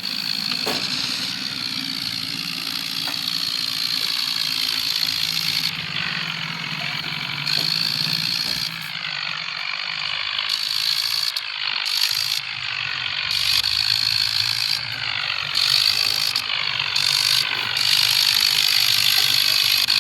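Tractor engine running steadily as the tractor drives, its pitch wavering slightly up and down.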